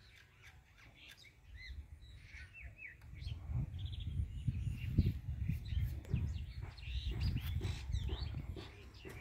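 Small birds chirping and tweeting in many short calls, over a low rumble that grows louder about three seconds in.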